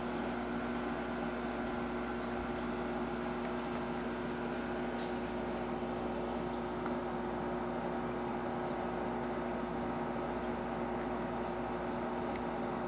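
Steady hum of reef aquarium pumps with a wash of circulating water.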